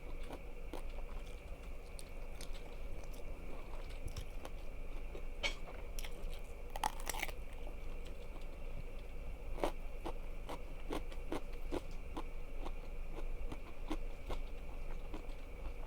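Close-miked biting and chewing of crunchy food: a run of sharp crunches, with a denser burst of crunching about seven seconds in.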